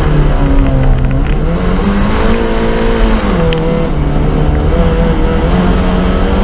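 Fiat Cinquecento Sporting's 1.1-litre four-cylinder engine heard from inside the cabin while lapping a track: the revs drop about a second in, climb again, dip briefly near three seconds, and rise once more near the end as the car works through the corners.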